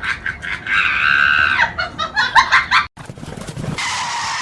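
Animal calls: a quick run of short, sharp calls with one longer held call about a second in. The sound cuts off suddenly near the end and gives way to a steady hiss.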